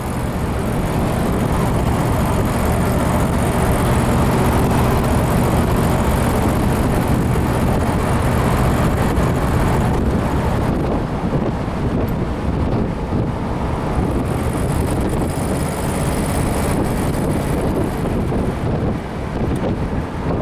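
1955 Ford Thunderbird's rebuilt 292 V8 running smoothly while the car is driven, a steady low engine hum under road and wind noise. The sound eases a little near the end as the car slows.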